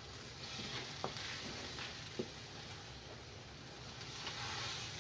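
Eggs and sautéed vegetables frying in olive oil in a skillet: a soft, steady sizzle, with a couple of light knocks of a wooden spoon against the pan about one and two seconds in.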